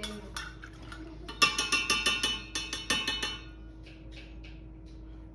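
A quick run of light clinks on glass, each with a short ring, lasting about two seconds from just over a second in, with a faint steady hum underneath.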